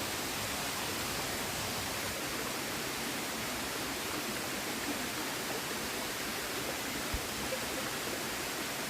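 River water rushing steadily, with a faint knock about seven seconds in.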